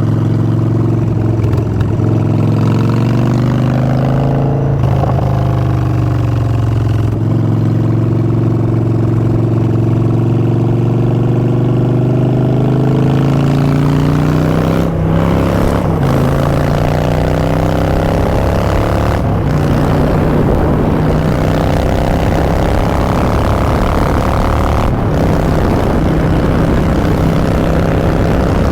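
Harley-Davidson Street Bob's Twin Cam 103 V-twin running through Vance & Hines Short Shots exhaust under way. The engine note rises with acceleration, with brief breaks about fifteen, nineteen and twenty-five seconds in as the rider shifts gear.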